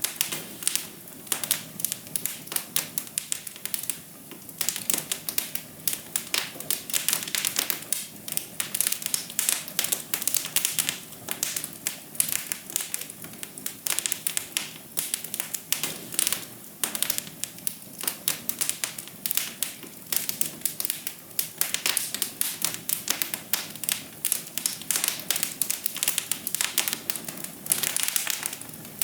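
Wood fire in a fireplace crackling: a dense, irregular run of small pops and snaps over a steady soft hiss.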